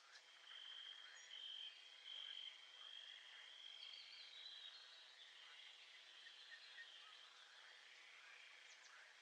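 Faint nature ambience: insects trilling in a high, steady band, strongest over the first few seconds, with scattered short bird chirps.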